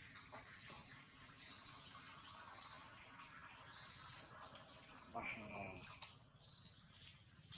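A bird's short, high, rising chirp repeated about once a second, with a brief lower call about five seconds in.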